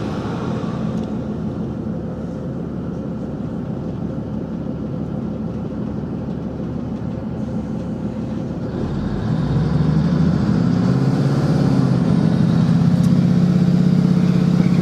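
Diesel train engine running, heard from inside the carriage. About nine seconds in it gets louder and its note climbs as the engine works harder.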